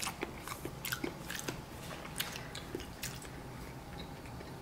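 Close-up mouth sounds of a person chewing soft, squishy steamed rice rolls (bánh cuốn): wet smacks and clicks, many in the first three seconds, then fewer.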